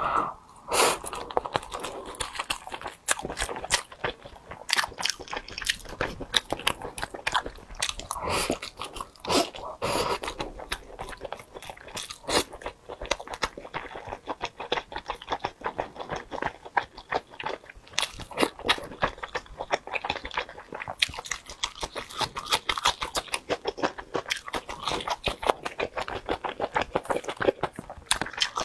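Close-miked chewing and mouth sounds of a person eating braised pork belly, braised eggs and rice: a dense run of quick smacks and clicks throughout.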